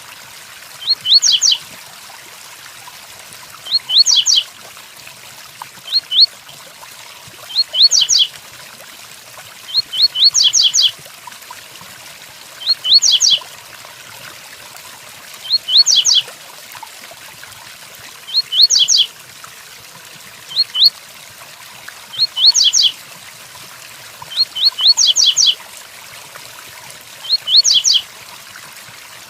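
Double-collared seedeater (coleiro) singing its short 'tui-tuí' song phrase of a few quick high sweeping notes, repeated about every two to three seconds, over a steady hiss of rain.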